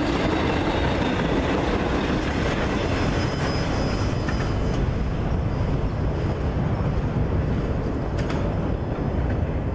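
Tail end of a long freight train of flatcars rolling past on the rails and receding. The higher rail and wheel noise dies away about halfway through, leaving a steady low rumble, with a few faint clicks near the end.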